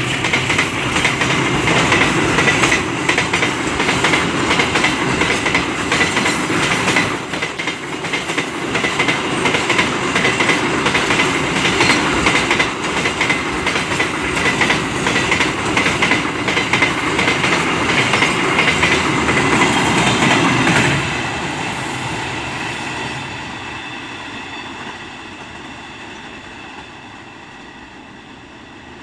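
Container wagons of a freight train rolling past close by, with a rhythmic clickety-clack of wheels over the rail joints and a faint high wheel squeal. About two-thirds of the way through the clatter stops suddenly and a fainter train rumble fades away.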